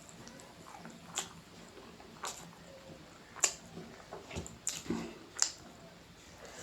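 Close-miked eating: wet chewing and mouth smacks over rice, egg and noodles, with about five sharp smacks spaced roughly a second apart.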